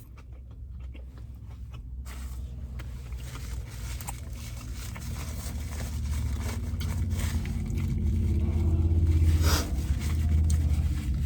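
Low car engine rumble that grows steadily louder, with scattered light clicks and rustles and a brief hiss near the end.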